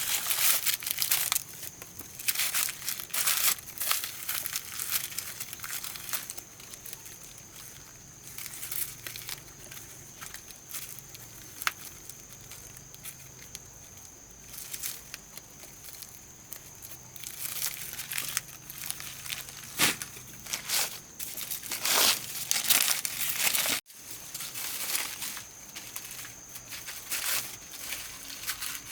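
Irregular dry crinkling and rustling of something being handled, over a faint steady high-pitched tone; it breaks off for an instant near the end.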